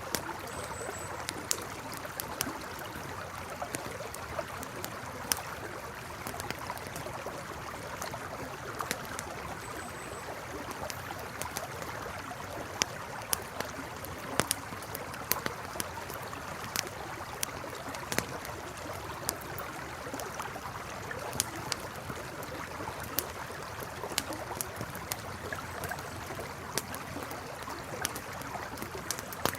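Campfire crackling, with sharp pops at irregular intervals, over the steady rush of a flowing river.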